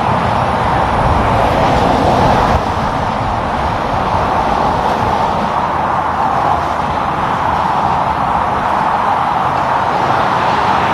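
Steady road traffic noise: a continuous wash of tyre and engine sound from moving trucks, with no distinct separate events.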